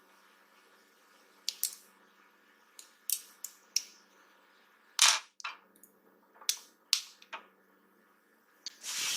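Irregular sharp clicks and taps of small tools and parts being handled while a smartwatch is worked on, about a dozen in all. The loudest come about five seconds in and near the end.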